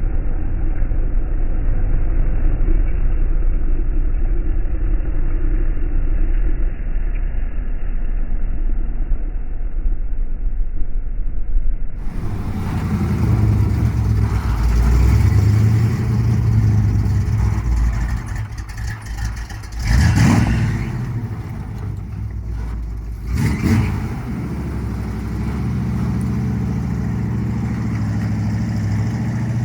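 Vehicle engine running with a steady low rumble, duller for the first dozen seconds, then fuller after a cut. Two short loud bursts come a few seconds apart, about two-thirds of the way through.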